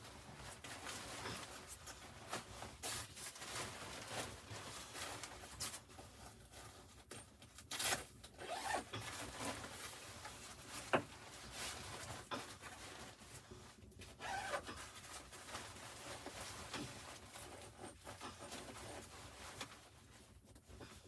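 Irregular rustling and scraping of things being handled, like fabric and gear being moved about. There are a few short squeaks and one sharp click about eleven seconds in.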